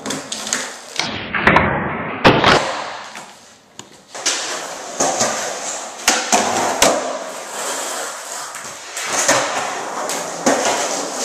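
Skateboard rolling, with repeated sharp clacks and thuds of the board hitting the ground; the heaviest thuds come about one and a half and two and a half seconds in.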